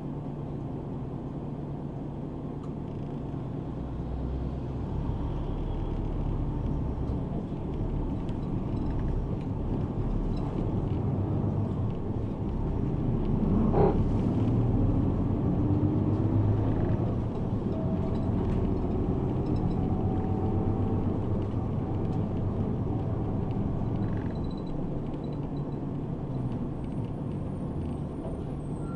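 Route bus running, its engine and road noise heard from inside the cabin, growing louder through the middle of the stretch and easing off again, with one sharp click near the middle.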